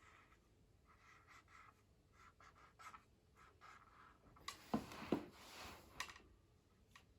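Marker pen writing on a whiteboard in short, faint scratchy strokes. A little after halfway comes a louder cluster of knocks and rustling, as from handling the board or pen.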